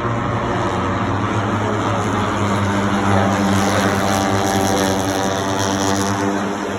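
Racing motorcycle engines running at high revs, the pitch climbing slightly about halfway through, then easing off near the end.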